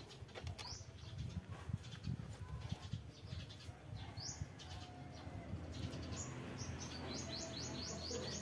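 A bird chirping: single short rising chirps a few seconds apart, then a quick run of them, about four a second, near the end, with scattered light clicks.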